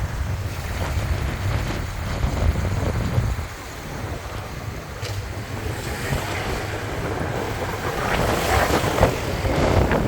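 Wind buffeting the microphone on a moving motorbike, with the bike's engine and road noise underneath. Steady low rumble, dipping a little about three and a half seconds in and picking up again near the end.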